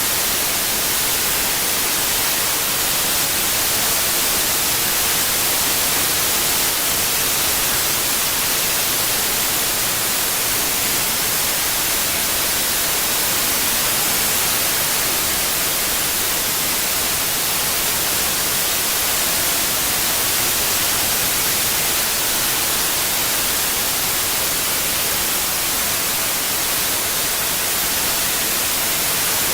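Steady synthetic white noise, an even hiss with most of its energy in the high frequencies and no changes.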